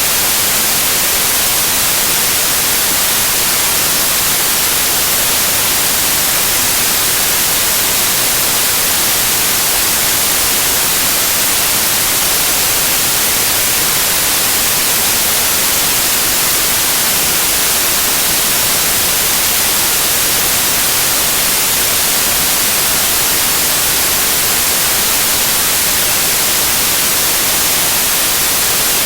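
Loud, steady white noise: an even hiss that does not change.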